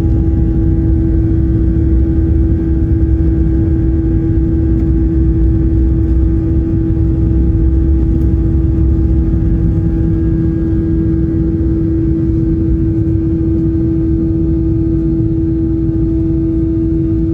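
Boeing 737-800's CFM56 jet engines running, heard inside the cabin as a steady low rumble under one strong, constant hum.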